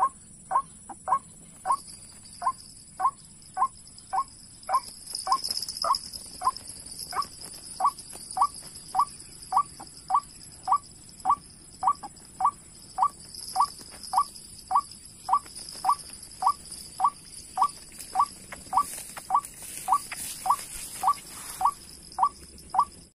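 White-breasted waterhen calling: short rising notes repeated steadily, about two a second, over a steady high-pitched whine.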